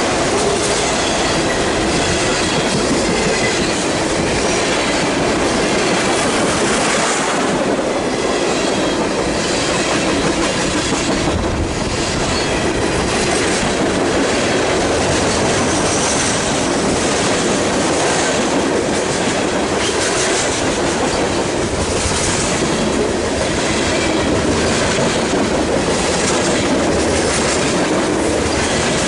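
BNSF freight train's cars rolling steadily past at close range, the wheels clicking over rail joints every second or two.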